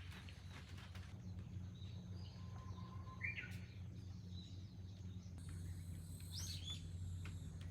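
A few short bird chirps, one about three seconds in and a pair near the end, over a steady low hum.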